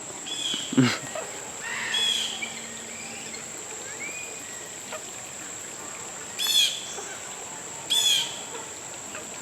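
Birds calling: several short calls spaced a second or more apart, the loudest two in the second half, over a steady high-pitched whine.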